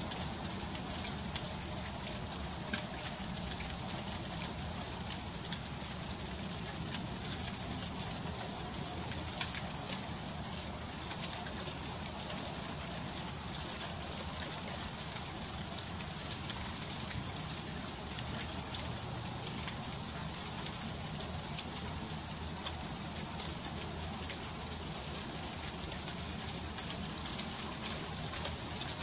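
Freezing rain falling in an ice storm: a steady hiss with many fine, irregular ticks as drops strike icy surfaces.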